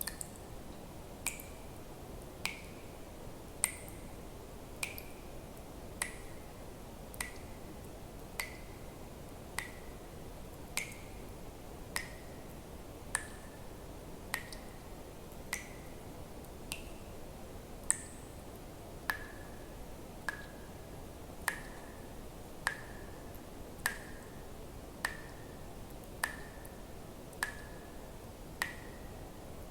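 Water drops falling one at a time in a steady rhythm, about one every 1.2 seconds, each a short pitched plink, over a faint steady hiss.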